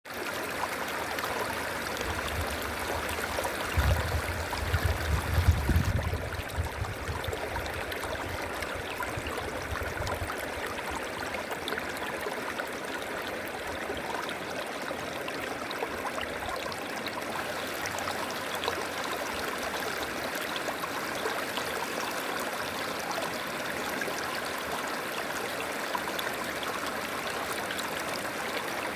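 River water flowing steadily over rocks, with a low rumble swelling for a few seconds early in the stretch before settling back to the even flow.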